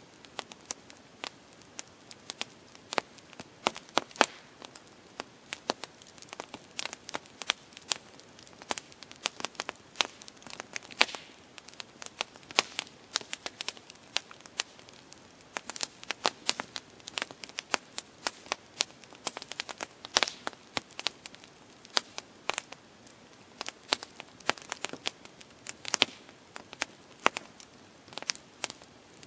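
Campfire crackling: burning wood gives off many sharp, irregular pops and snaps over a soft steady hiss.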